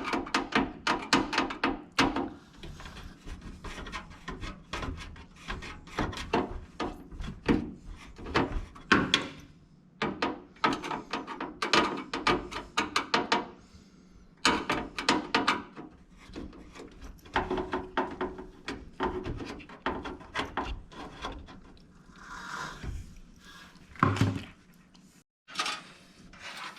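Irregular clicks, knocks and rubbing of hard objects being handled and rummaged through, as in a search through boxes of computer parts, with a few short pauses.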